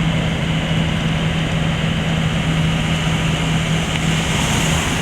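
Heavy machinery engine running steadily at an even pitch, with no change in revs.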